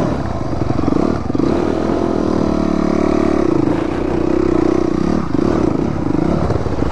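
Dirt bike engine running under the rider, its revs rising and falling as it rides along the trail.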